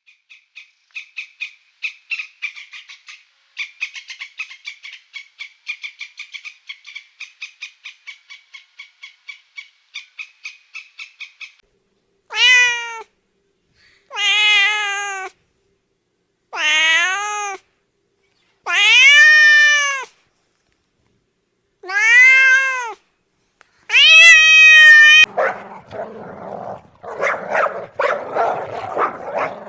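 A cat meowing six times: long, loud meows that rise and fall in pitch. Before them comes a rapid run of high chirps, about four a second, and near the end a rough, noisy sound takes over.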